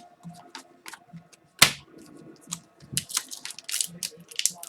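Hockey trading cards being handled and flipped through: a string of small card clicks and rustles, with one sharp snap about a second and a half in and denser rustling near the end.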